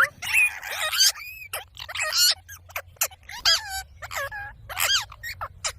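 Ringneck parrot (rose-ringed parakeet) calling: a quick series of short squawks that rise and fall in pitch, with harsher rasping squawks between them.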